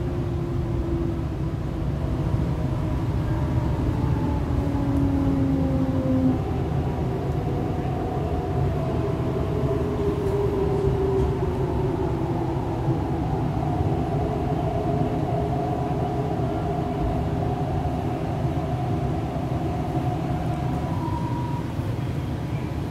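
Hyundai Rotem R-Train electric multiple unit heard from inside the carriage as it slows into a station: a steady low running rumble with an electric motor whine whose several tones fall gently in pitch as the train brakes, and a short higher tone near the end.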